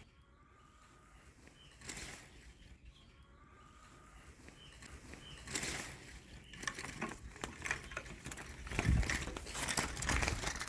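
Goldfinches at a bird trap: two brief wing flutters, then a denser run of rustling, clicks and low scuffs in the last few seconds, with faint short goldfinch calls.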